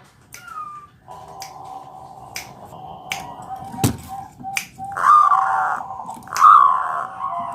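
Zebra dove (perkutut) cooing: a warbling run of coos with two louder, higher coos about five and six and a half seconds in. Sharp clicks come roughly every three quarters of a second throughout.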